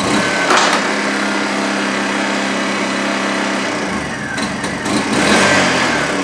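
Honda EU1000i inverter generator's small four-stroke engine suddenly firing up and running steadily. Its speed rises for a moment about four and a half seconds in, and it starts to wind down at the very end.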